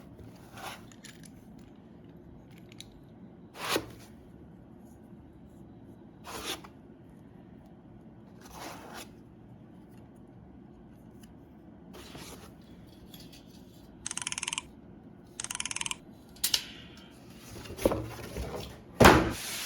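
Unboxing handling sounds: scattered soft knocks and rustles of packaging and parts, two short rasping scrapes about two-thirds of the way through, then louder knocks near the end.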